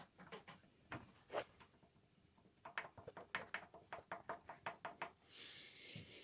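Sharp knocking, the knock being recorded on a 3.0 TFSI engine: a few scattered knocks, then a fairly even run of about five a second for a couple of seconds. A soft hiss follows near the end.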